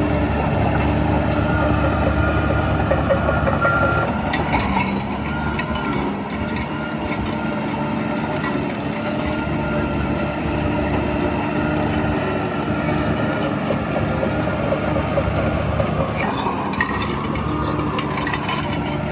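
Heavy diesel engine of earthmoving machinery running steadily. It eases slightly about five seconds in, with a few short clatters around then and again near the end.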